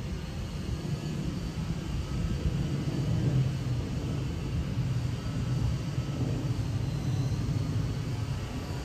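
A fixed-wing airplane flying past, its engine a steady low drone that swells slightly around the middle.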